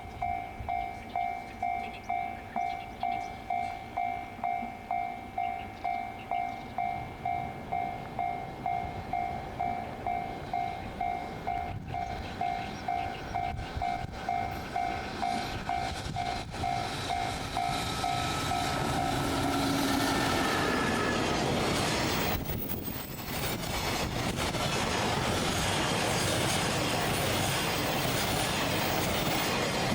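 A freight train passing on the line. For about the first eighteen seconds a ringing tone pulses about twice a second. The train's rolling noise then builds into a loud, harsh hiss and screech, an unpleasant noise apparently coming from the rails, which holds to the end.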